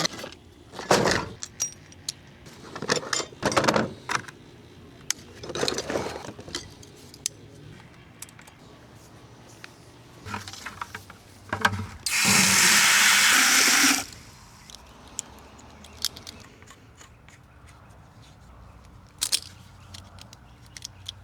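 Equipment being handled with knocks and rattles, then a loud burst of rushing water lasting about two seconds that stops sharply, followed by a few light clicks.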